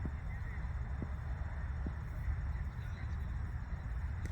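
Steady low rumble of outdoor background noise at a cricket ground, with three faint knocks: one at the start, one about a second in and one near two seconds.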